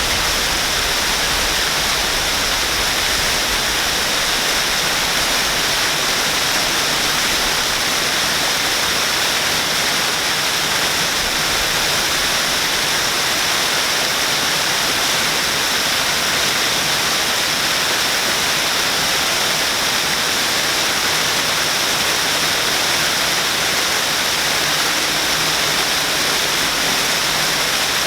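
Waterfall: a steady, even rush of falling water, bright and hissing with little low rumble.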